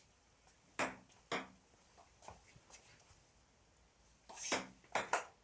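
Table tennis ball clicking off bats and the table: two sharp hits about a second in, a couple of faint ticks, then a quicker run of hits near the end.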